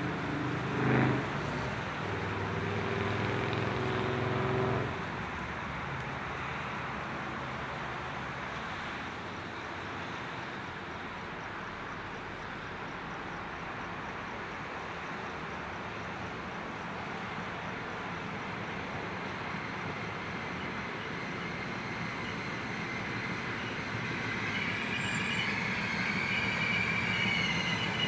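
CountryLink XPT diesel passenger train approaching and pulling into the station. A low engine drone for the first five seconds gives way to a steady rumbling hiss. In the last few seconds there is high, wavering wheel and brake squeal as the train slows to a stop.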